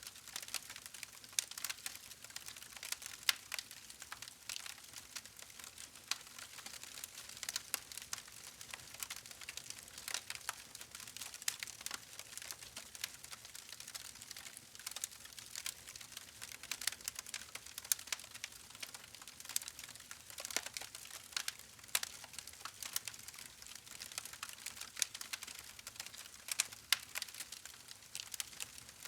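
Wood fire crackling: a steady hiss with many small, irregular pops and snaps.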